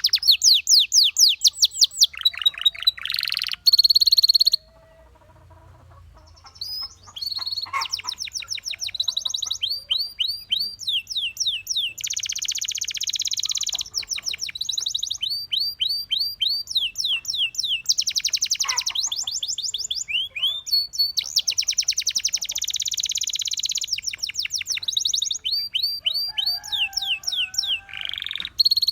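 Canary singing in long runs of fast repeated chirping notes alternating with dense rolling trills, with a short pause about five seconds in.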